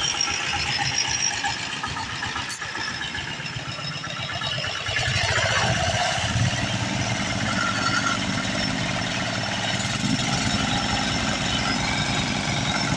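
Diesel engine running with a rapid knocking beat; about five seconds in it grows louder and fuller, with a brief falling tone as it changes.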